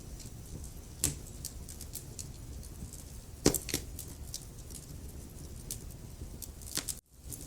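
Wood fire burning: a low steady rumble with scattered sharp crackles and pops, the loudest about three and a half seconds in. The sound cuts out for an instant near the end.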